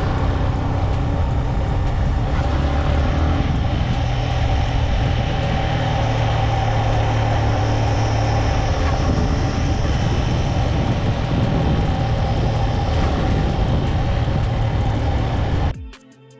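Motorcycle being ridden, its engine a steady low drone under heavy wind rush on the microphone. It cuts off suddenly near the end.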